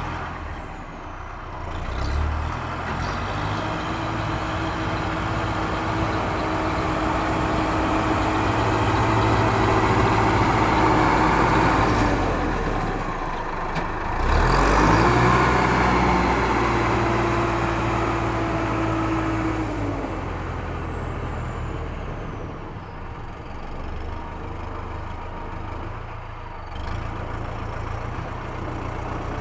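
Heavy vehicle engine running and revving up twice, each time with a high whine that falls away as it settles back.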